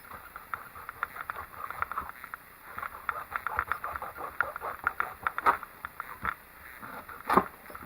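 Kitchen knife cutting the ends off an acorn squash: a run of small crunching clicks as the blade works through the hard rind, then two louder knocks about two seconds apart as the blade goes through onto the cutting board.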